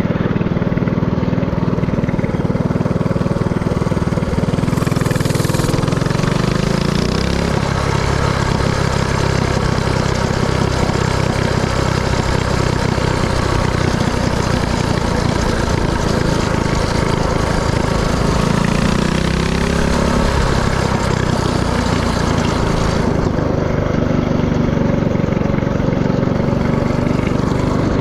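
Mini-bike's Predator 224cc single-cylinder four-stroke engine running under way. The engine note drops about seven seconds in and swells and falls again a little past halfway.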